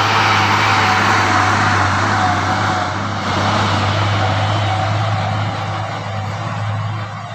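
Truck engine running steadily with road noise: a low hum under a broad hiss that eases after about three seconds.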